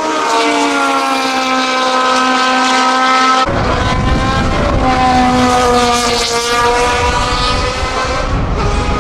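Cosworth DFV V8 of a 1977 De Cadenet Lola LM sports prototype racing, its engine note sinking slowly in pitch. About three and a half seconds in, a heavy low rumble suddenly joins the sound, and the pitch dips and climbs again.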